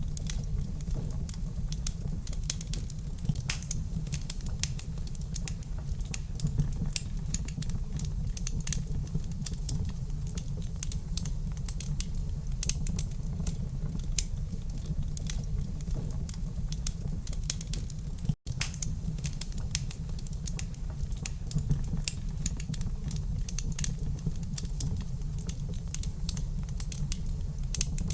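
Wood fire crackling in a fireplace: dense, irregular small pops and snaps over a steady low rumble of the burning fire. The sound cuts out for a split second about two-thirds of the way through.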